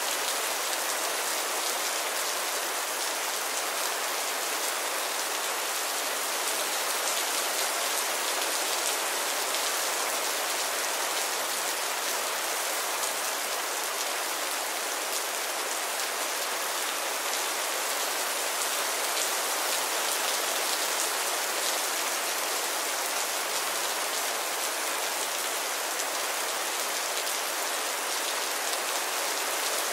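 Steady rain falling: an even, unbroken hiss of many drops, with little low rumble.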